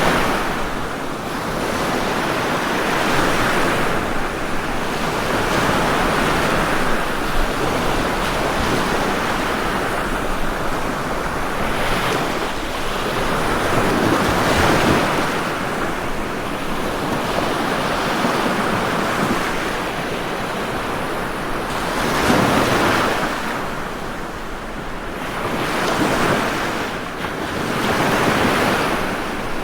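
Ocean waves breaking and washing on a shore, a steady surf that swells and ebbs with each wave, several surges over the half minute.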